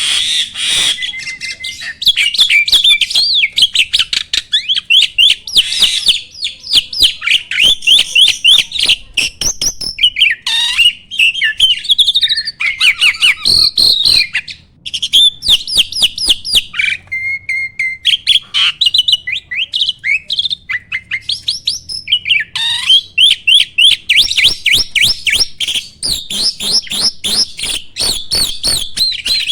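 A jalak (starling) singing a long, fast, chattering song of quick whistled and scratchy notes. The song breaks off briefly about halfway through, then resumes.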